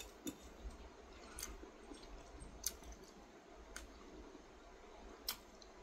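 Quiet chewing of a mouthful of food, with about five short sharp clicks spread through it.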